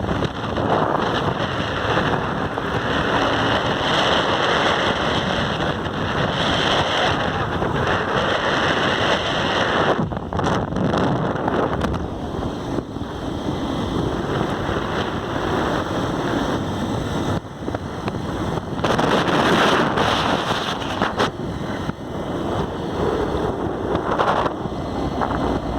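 Wind rushing and buffeting over the microphone of a moving motorcycle, a loud, continuous rushing noise that swells and eases.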